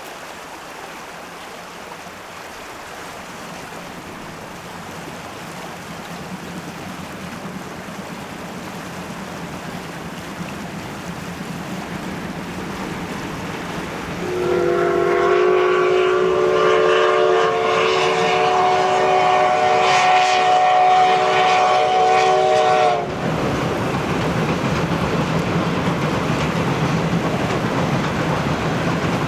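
A locomotive approaching, its running noise growing, then about halfway in a long whistle of several notes sounding together, held for about eight seconds and cut off sharply, with the train's running noise carrying on louder.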